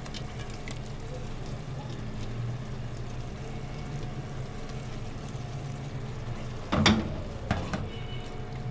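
Chicken and vegetables frying in a pan over a steady low hum, with one sharp knock about seven seconds in.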